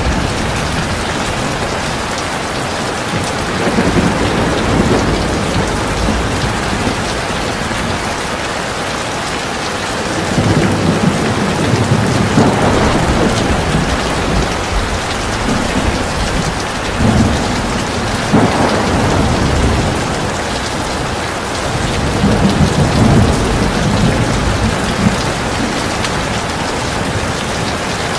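Heavy rain falling steadily, with low rumbles of thunder swelling up several times beneath it.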